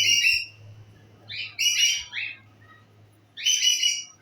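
A bird calling in three short bursts of chirps, each about half a second long, with short pauses between.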